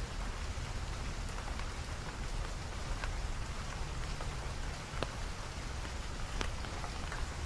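Steady rain falling, with individual drops tapping sharply a few times a second over the even hiss.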